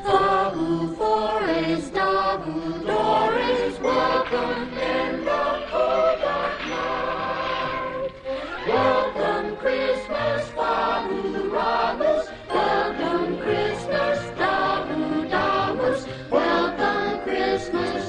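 Christmas music: a choir singing over an orchestral accompaniment.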